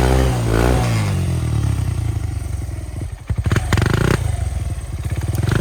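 Small trail motorcycle's single-cylinder engine under way, the revs rising and falling with the throttle. The engine note drops briefly about three seconds in, then picks up again.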